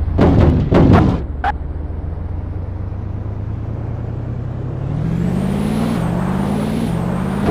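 Car engine running, with several sharp bangs in the first second and a half, then a steady drone. From about five seconds in, the engine note climbs and drops back several times as the car accelerates through its gears, with a high whine following the engine's pitch.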